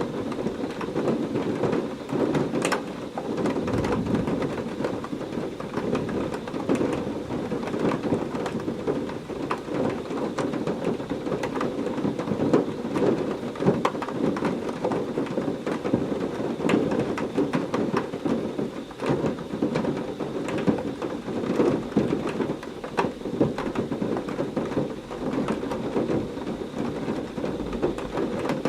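Heavy rain falling steadily, with many individual drops splashing close by, and thunder rumbling low underneath throughout rather than in one sharp clap.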